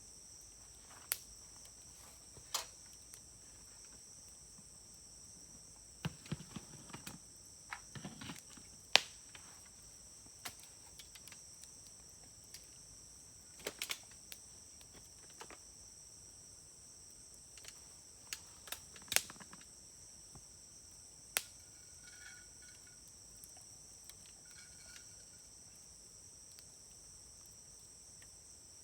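Campfire crackling, with sharp wood pops scattered irregularly, a flurry of them a few seconds in and single loud ones around the middle. Underneath runs a steady high trill of insects.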